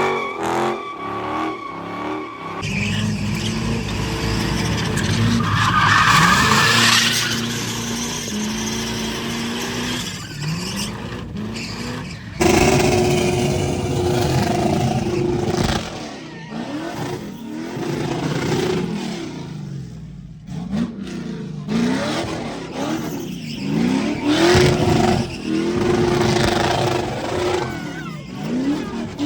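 Car engine revving up and down over and over, with tyres squealing as a car does a burnout and slides. The sound changes abruptly about twelve seconds in.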